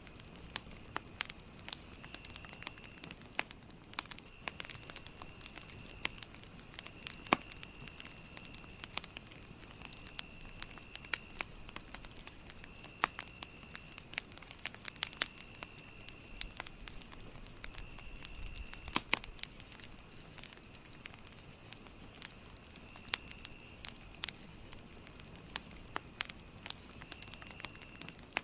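Campfire crackling with irregular sharp pops, over insects chirping in a steady, evenly repeating pattern.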